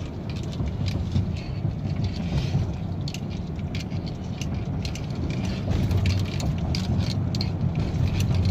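Steady low road and engine rumble heard from inside a moving vehicle's cabin, with scattered light clicks and rattles.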